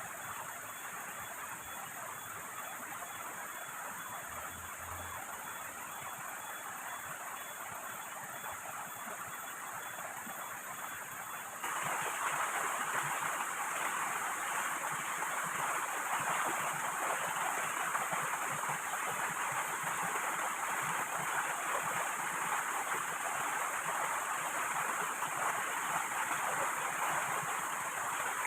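Steady rushing noise of heavy rain and river water, which jumps abruptly louder about twelve seconds in.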